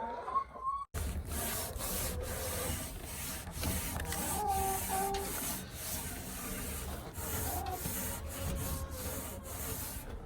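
A dirty wooden chicken roost being scrubbed and scraped, a steady rubbing with repeated strokes. A hen calls briefly about halfway through.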